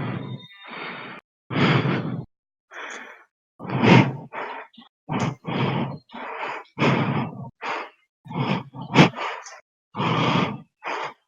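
A person breathing heavily and loudly close to the microphone: about fifteen short gasping and sighing breaths in quick succession, some carrying a low voiced groan or grunt. Each breath is separated by a brief gap of complete silence.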